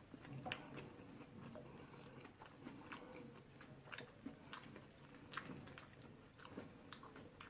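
Close-miked chewing and biting of fried chicken: scattered soft crunches and wet mouth clicks.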